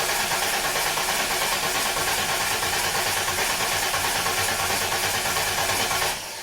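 Starter motor cranking the TVR 290S's 2.9 V6 with an even pulse, turning over well but not firing, and stopping about six seconds in. The owner suspects the fuel pump isn't running, perhaps from a blown fuse.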